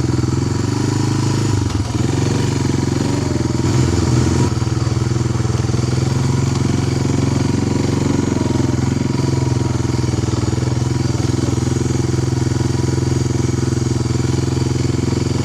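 The bike's engine running steadily as he rides on through the snow, with a brief rise in revs about three to four seconds in.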